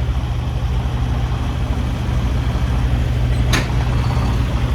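Semi-truck diesel engine running steadily at low revs as the truck backs up in reverse to slide the trailer's tandem axles, with one short sharp sound about three and a half seconds in.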